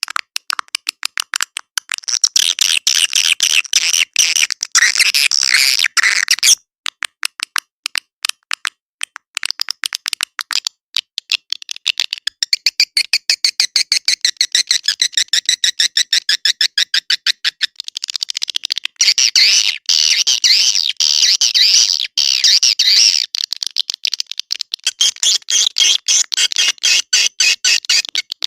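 Swiftlet calls: rapid, dense trains of clicking chirps and twitters in long bursts with brief gaps. This is a lure-call recording of the kind played to draw swiftlets into a swiftlet house.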